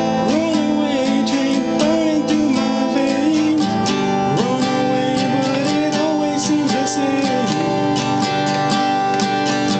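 Acoustic guitar strummed in a steady rhythm, playing the chords of the song, with a bending melody line carried over it.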